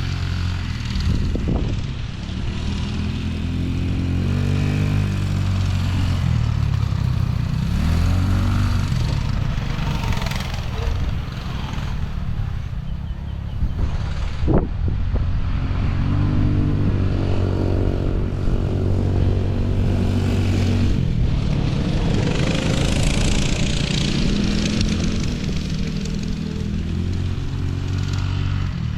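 Small off-road vehicle engine running under way, its pitch rising and falling again and again as the throttle opens and closes, with a sharp knock about halfway through.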